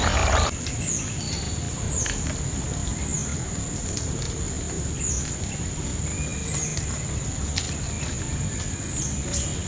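Steady high-pitched insect drone with a short falling chirp repeated roughly once a second, over a low rumble. A louder, noisier sound cuts off about half a second in.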